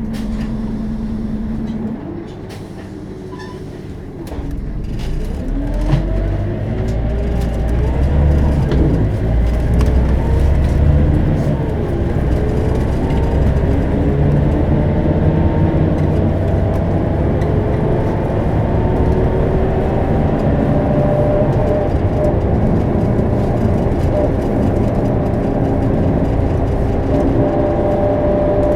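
Scania DC9 five-cylinder turbodiesel of a Scania K270UB bus with ZF Ecomat automatic, heard from on board. It is briefly quieter, then about four seconds in it pulls away, its pitch rising and stepping with several automatic gear changes, and settles into steady running with a steady whine.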